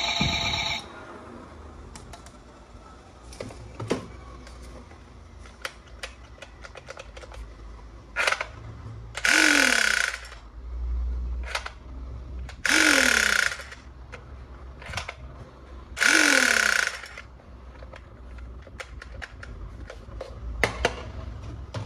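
Battery-powered toy gun firing its electronic shot sound three times, each a hissy burst of about a second that ends in a falling tone, with plastic clicks from the toys being handled throughout. An electronic tune cuts off just under a second in.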